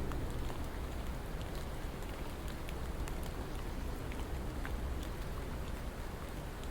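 Steady rain, with a dense haze of rainfall and many separate drops ticking on a surface. A low rumble fades out at the very start.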